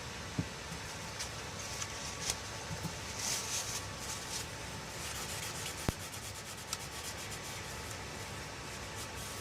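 Light rubbing or scraping with a few small clicks, over a steady background hiss.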